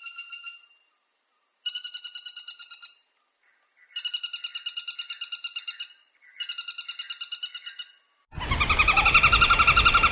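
Woodpecker rattling calls: fast trills of evenly repeated notes, about a dozen a second, in phrases of one to two seconds with short gaps. A louder, harsher trill starts a little after eight seconds in.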